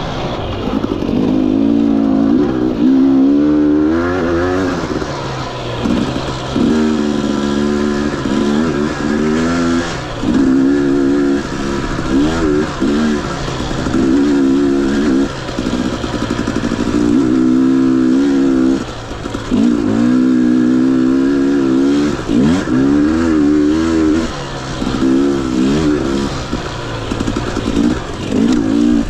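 Husqvarna TE 250i two-stroke dirt bike engine, revving up and down over and over as the throttle is opened and closed, with a couple of short drops back toward idle.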